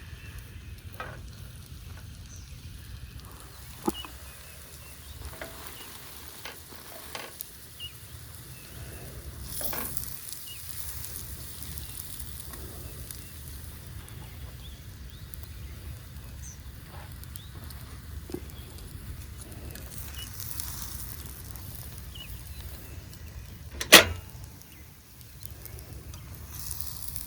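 English muffin sizzling as it grills on a camp stove, over a steady low hum. There are scattered light clicks and one sharp clack a few seconds before the end.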